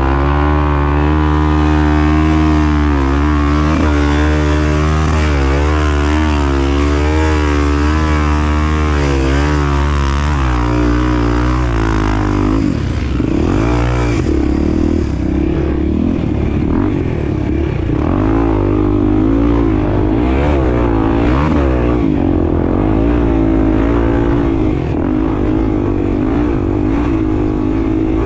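Honda XR250 Tornado's single-cylinder four-stroke engine running continuously, its pitch rising and falling with the throttle. From about twelve seconds in the sound turns rougher and more uneven.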